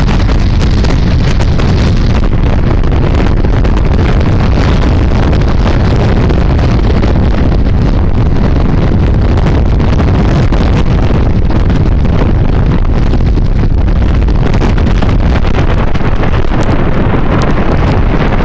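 Strong wind buffeting the microphone, a loud, steady low rumble throughout.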